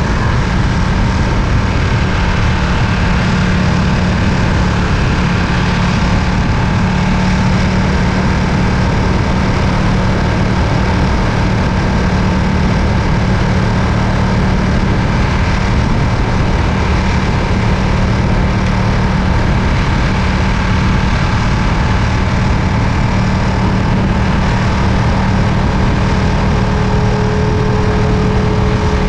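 Ducati Panigale V2's 955 cc Superquadro V-twin engine running steadily, with no change in revs.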